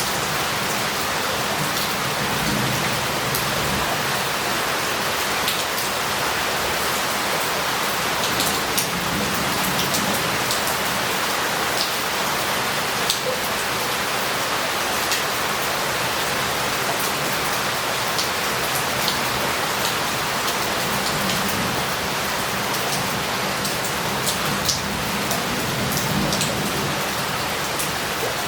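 Heavy rain falling steadily, with scattered louder drops ticking sharply here and there.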